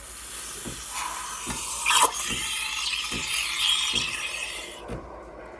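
Espresso machine steam wand hissing and gurgling as it froths milk in a small frothing cup, the hiss cutting off near the end.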